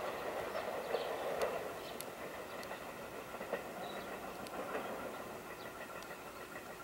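Electric commuter train running, heard from inside the car: a steady rumble of wheels on rail with scattered light clicks and ticks, getting gradually quieter.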